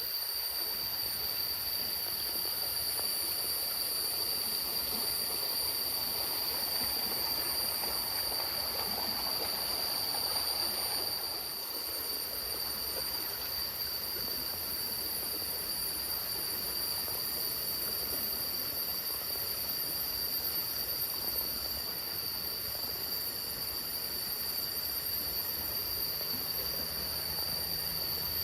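Steady rush of falling water, with a steady high-pitched whine over it.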